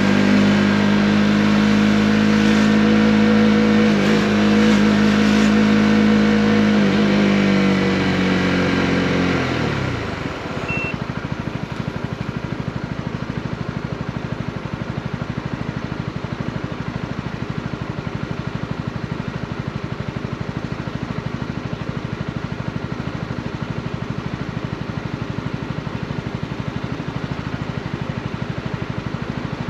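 Honda CB125R's 125 cc single-cylinder four-stroke engine running at steady revs under way, then falling in pitch over a few seconds as the bike slows, and settling about ten seconds in to a quieter, even idle.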